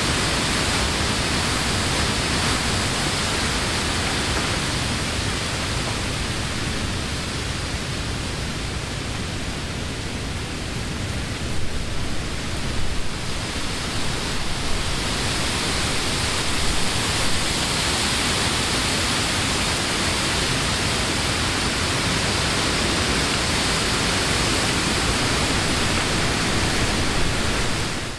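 Wind blowing through trees, the leaves rustling in a steady rush that eases a little around the middle and then builds again.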